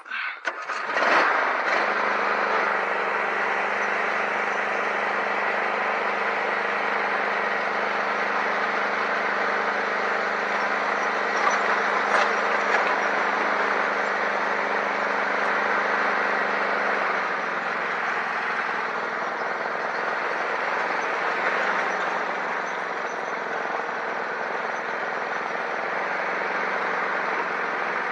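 A vehicle engine starts about a second in and keeps running steadily, its note dropping slightly about two-thirds of the way through.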